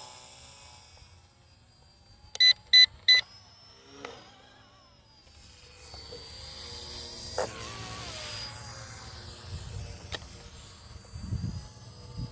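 Three loud, short electronic beeps about two and a half seconds in. From about five seconds, a toy helicopter's small electric motor whines at a high pitch, with a sharp click a couple of seconds later.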